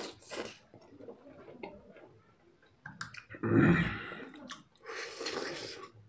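Close-up crunching and chewing of raw cabbage leaf, with small wet mouth clicks. About three and a half seconds in comes a louder, deeper bite into a whole chilli, followed by more crunchy chewing near the end.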